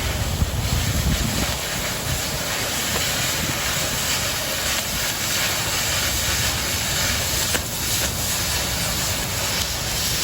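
Oxy-fuel cutting torch hissing steadily as it cuts through quarter-inch steel plate.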